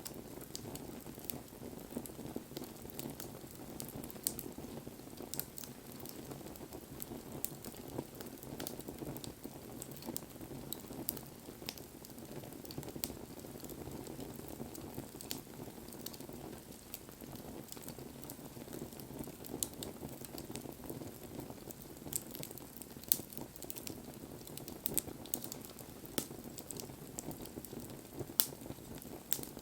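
Wood bonfire burning, with a steady low rush of flame and frequent sharp, irregular crackles and pops from the burning wood.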